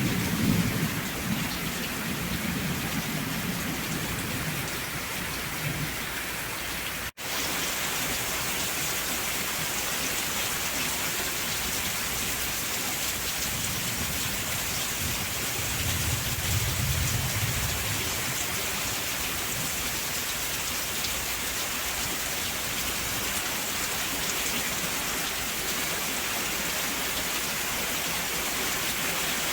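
Steady rain falling, with low rolls of thunder in the first few seconds and again about sixteen seconds in. The sound drops out for an instant about seven seconds in.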